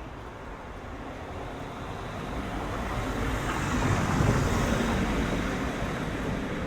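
A motor vehicle approaching and passing close by, its engine and tyre noise swelling to a peak about four seconds in, then fading away.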